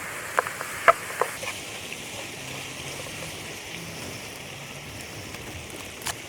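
Steady rain falling, heard as an even hiss. A few sharp taps come in the first second and a half, and one more near the end.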